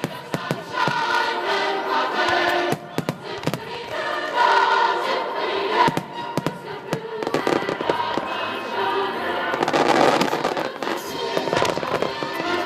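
Aerial fireworks bursting, with many sharp bangs and crackles, over choral music playing along.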